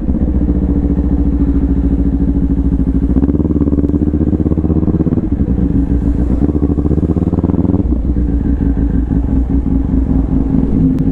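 Kawasaki Ninja 400 parallel-twin motorcycle engine running steadily, its tone shifting slightly a few times.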